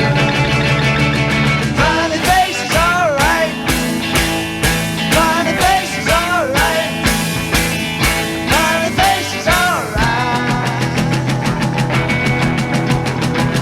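Late-1960s psychedelic rock song playing: a full band with drums and bass, and a lead melody line that bends and wavers in pitch through the middle of the passage, with no words sung.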